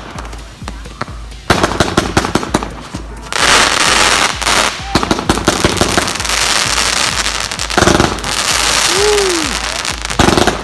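Consumer firework cake firing: a rapid string of sharp cracks as shots go up, then from about three seconds in a long, dense crackle of bursts.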